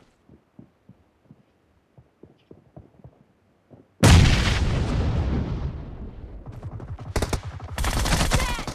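Video game gunfire. After about four seconds of faint soft ticks, a sudden loud burst of rapid automatic fire starts and fades off, and another stretch of rapid fire comes near the end.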